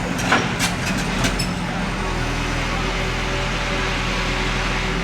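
Heavy diesel earthmoving machine engine running steadily, with a few sharp metallic clanks in the first second and a half.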